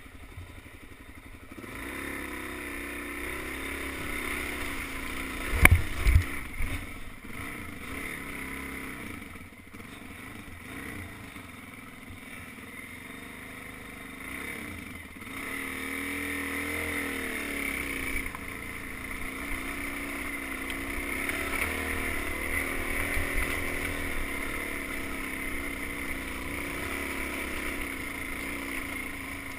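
Suzuki DR-Z400's single-cylinder four-stroke engine running on a trail ride, its pitch rising and falling with the throttle. A few loud knocks come about six seconds in.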